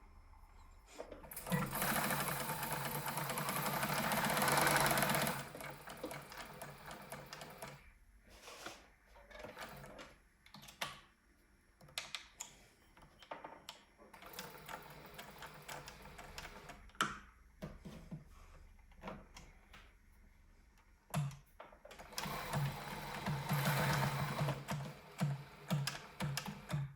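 Bernina 1230 sewing machine running twice, each time for about four seconds, with clicks and knocks of handling in between.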